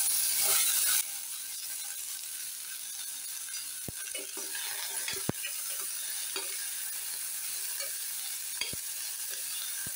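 Tomato, mustard seeds and cumin sizzling in coconut oil in a small pressure cooker as chopped chayote is added and stirred in with a spoon. The spoon clicks against the metal pot a few times.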